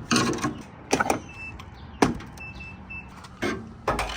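A few sharp knocks and clicks, and one short high electronic beep followed by a quick run of three at the same pitch.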